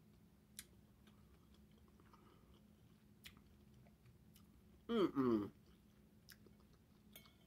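Quiet chewing of a mouthful of lobster, with a few faint mouth and cutlery clicks. About five seconds in, a short burst of voice, loud against the chewing, is heard.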